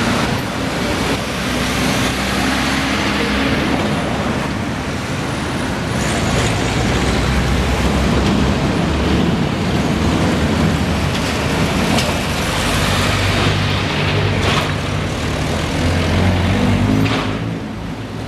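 Street traffic with heavy vehicle engines running, broken by a few sharp knocks.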